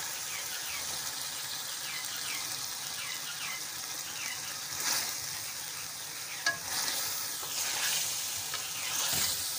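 Chicken korma sizzling in ghee in a pot, a steady frying hiss, while a spatula stirs and scrapes through it in repeated strokes. The chicken's liquid has cooked off and it is frying in the fat it has released. A single sharp click comes partway through.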